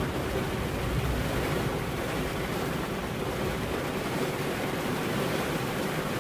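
Steady heavy rain, a dense, even hiss.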